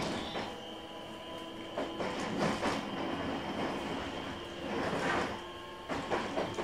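Inside a JR West 223 series 2000 electric train car: a steady electrical hum with several held tones, with a few irregular knocks and rustles.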